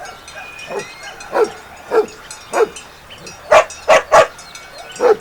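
Dog barking: about seven short barks at uneven intervals, with three in quick succession a little past the middle.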